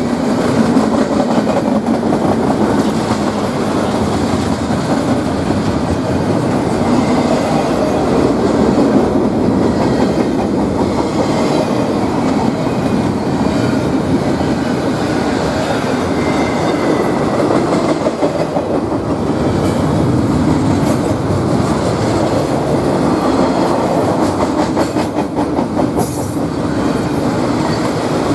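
Railroad train passing close by: a steady, loud rumble and rapid clatter of steel wheels over the rails, with a brief high wheel squeal near the end.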